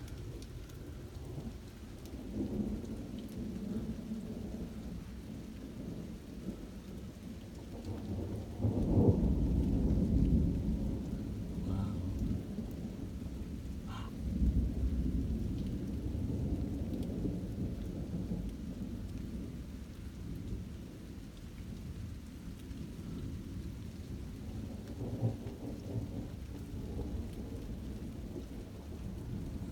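Thunder rumbling almost without a break, with a louder peal breaking in suddenly about eight seconds in and rolling away over several seconds. Rain falls throughout.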